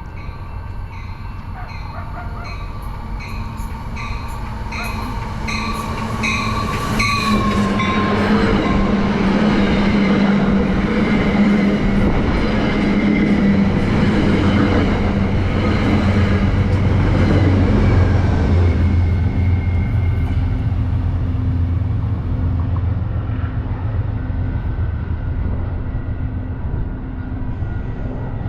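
Amtrak push-pull passenger train passing: the NPCU cab car and Comet coaches go by with loud wheel and rail noise from about seven seconds in, then the P32-8WBH diesel locomotive pushing at the rear passes with a steady low engine drone that eases off near the end. Over the first seven seconds a ringing tone repeats a little under twice a second as the train approaches.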